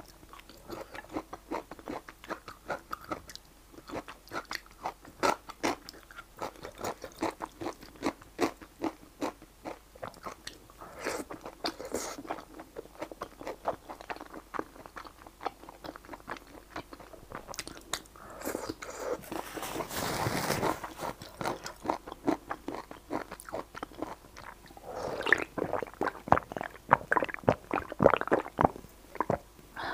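Close-miked chewing of spicy stir-fried rice noodles: a steady run of wet mouth clicks and smacks, with a longer rushing noise about two-thirds of the way through. Near the end, swallowing while drinking from a can.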